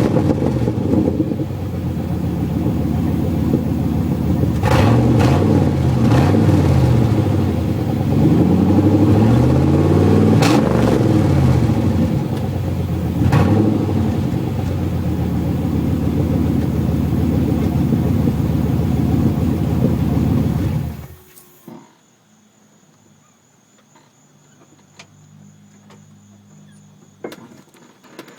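Car exhaust through a Stainless Works CR33 three-chamber muffler, fitted on its reverse side, on a 1988 Pontiac Firebird: the engine idles and is revved up and down several times, then is switched off about two-thirds of the way in and the sound cuts out.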